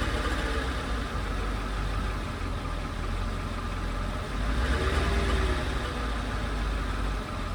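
Mercedes-Benz W210 E-Class engine running at low revs, with the light rattling noise that the owner hears around 1000 rpm and cannot identify. The engine grows a little louder for about a second, about five seconds in.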